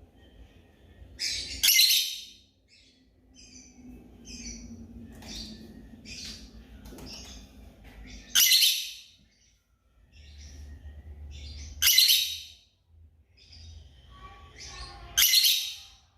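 African lovebirds calling: four loud, shrill, harsh shrieks a few seconds apart, with softer short chirps between them.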